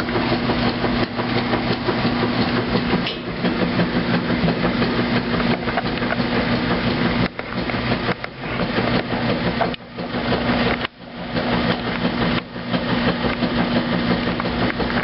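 2008 Kenmore washing machine running its heavy duty cycle: a steady motor hum under a dense, continuous clatter and knocking, broken by a few brief pauses in the second half.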